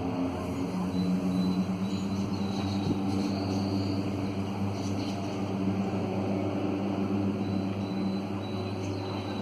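Steady low drone of a passenger ferry's engines, holding one even pitch throughout.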